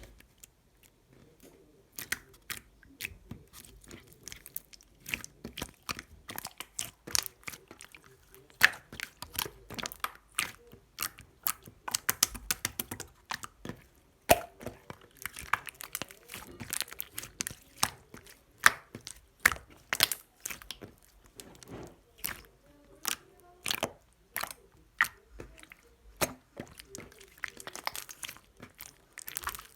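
Clear slime being squished and pressed by hand, giving many sharp, irregular pops and clicks as air pockets burst.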